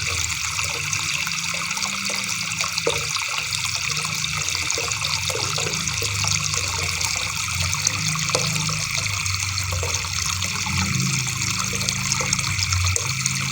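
River water babbling and splashing over stones, a steady rushing with many small splashes.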